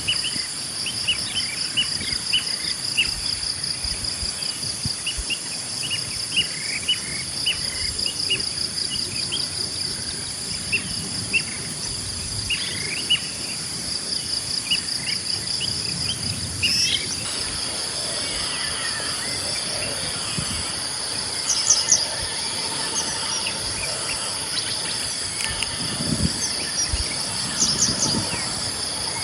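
A steady chorus of insects trilling in a fast, high pulsing drone, with birds chirping over it, busiest in the first half and with a few quick rising calls later on.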